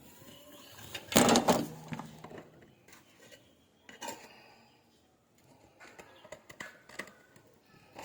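Metal kitchen pots and utensils clattering: one loud clatter with a brief ring about a second in, then scattered lighter clinks and knocks.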